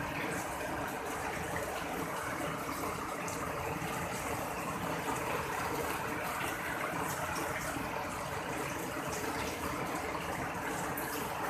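Heavy tropical rain pouring down in a steady rush.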